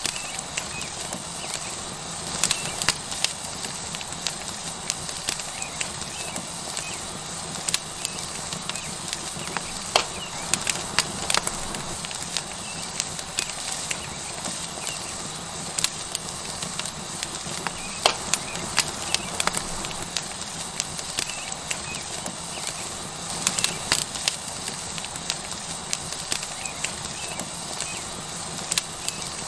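Tomahawk steak sizzling on a hot rock over a wood fire, with the fire crackling. A steady hiss is broken by frequent sharp, irregular pops.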